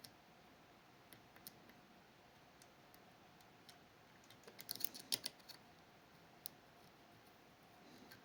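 Faint metallic clicks and ticks of picking tools working the levers inside a Fichet 484 lever sidebar lock, scattered at first, with a quick cluster of clicks about halfway through and one more click shortly after.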